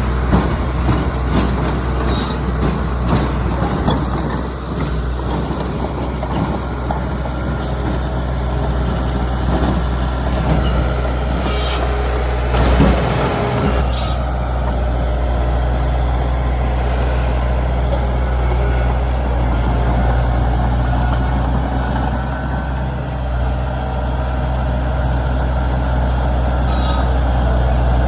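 Heavy diesel earthmoving machinery, a bulldozer working with dump trucks, running steadily with a deep hum. Metal clanks come in the first few seconds, and a louder run of knocks comes about twelve to fourteen seconds in.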